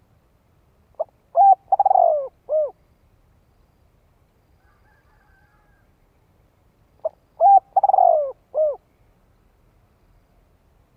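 Spotted dove cooing, a male's territorial call of the kind used as a decoy to lure wild doves. Two identical phrases about six seconds apart, each a short note, two quick notes, a longer rolling coo and a final falling note.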